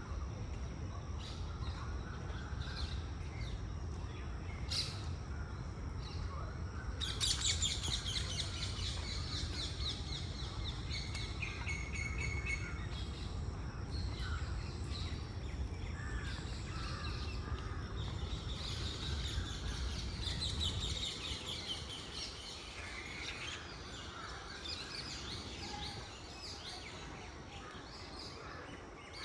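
Several birds chirping and calling over one another, with a loud run of rapid repeated notes about a quarter of the way through. A steady low rumble sits underneath and fades out about two-thirds of the way through.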